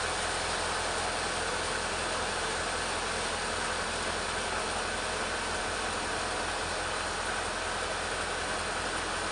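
Petrol chainsaw running steadily under load, ripping lengthwise through a teak log.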